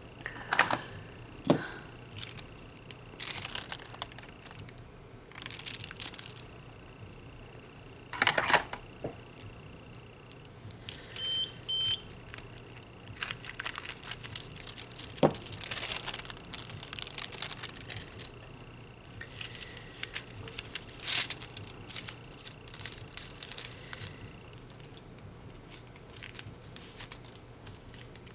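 Crinkling and rustling of a sheet of nail foil being handled, with scattered small clicks. Two short electronic beeps about a third of the way through.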